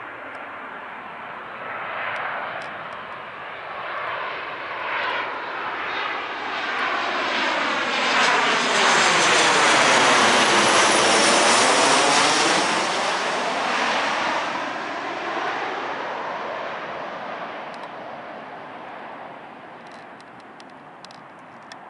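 Boeing 737-800's CFM56-7B turbofan engines passing overhead on landing. The jet noise builds to its loudest about ten seconds in, with a sweeping tone that falls and then rises as the aircraft goes by, then fades away.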